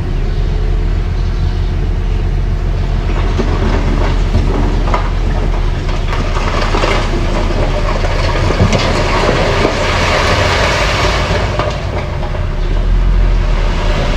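Mini bulldozer's diesel engine running with a steady low rumble, with clanks and rattles from its working tracks, louder for a few seconds past the middle.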